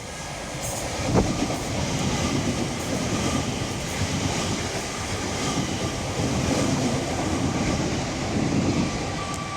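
TfL Rail electric multiple unit running past the platform: a steady rush of wheels on rail that builds as it arrives, with a sharp knock about a second in and a faint steady whine.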